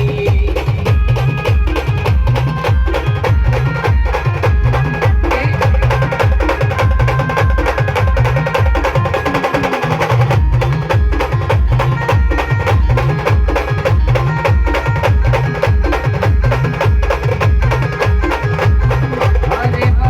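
Live band baja music played loud through a heavy bass sound system: a steady pounding low beat with drums under a melody of held notes. About nine and a half seconds in, the bass beat drops out briefly under a quick drum roll, then comes back.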